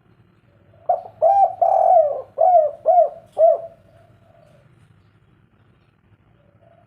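Spotted dove (derkuku) cooing one phrase starting about a second in: two short notes and a longer drawn-out coo, then three short 'kuk' notes to close. This is the three-beat 'kuk 3' ending.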